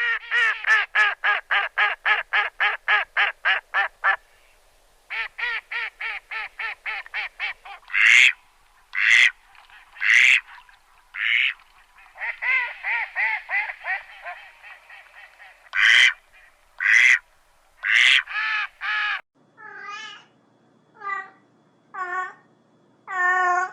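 Ducks quacking: fast runs of calls, about five a second, then louder single quacks. In the last few seconds, slower wavering calls of another animal take over.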